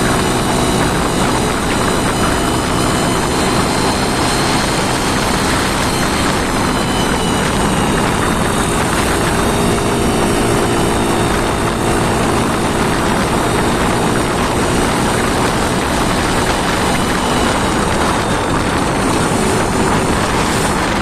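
An engine running loudly and steadily at high speed during a test run, with a thin high whine over the noise.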